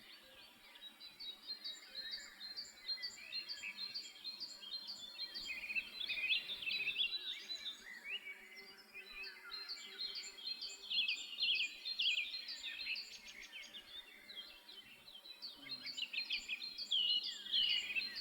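Songbirds chirping continuously: many quick, high chirps in rapid runs, with no pause.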